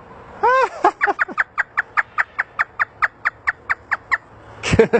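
African grey parrot doing a hysterical laugh. A couple of drawn-out notes lead into a fast, even string of short "ha" notes, about five a second, with a louder call near the end.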